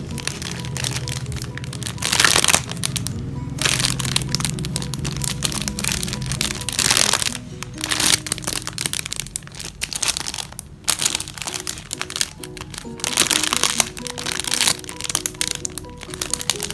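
Squishy toys squeezed by hand in repeated bursts of crinkling and crackling, over background music.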